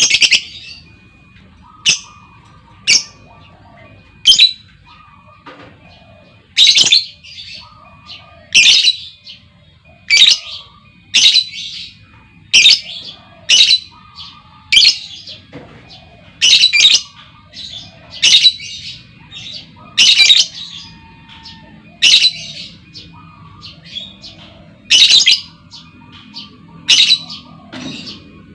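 Lovebird calling: sharp, loud, high-pitched squawking calls about once every second or so, with softer chattering between them. The recording is of a female lovebird, used as a lure to set other lovebirds trilling.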